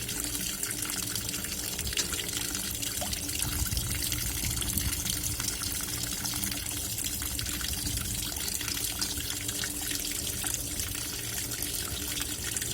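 Water running and splashing in a Black&Decker washing machine tub over a steady low hum, a short run to work up foam in the wash water.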